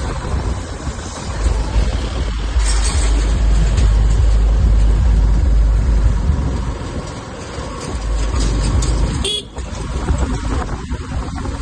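Road traffic noise: vehicles running with horns tooting, a steady heavy rumble that drops out briefly about nine seconds in.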